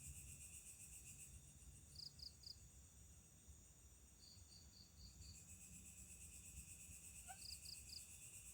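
Faint night insect chorus of crickets, a steady pulsing high trill. Over it come short runs of high chirps: three about two seconds in, five around the middle, and three more near the end.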